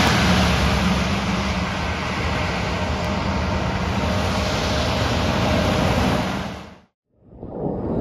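Snowplow trucks on the road: steady engine hum under a broad rushing road noise, which cuts off suddenly about seven seconds in before a different noisy sound fades in.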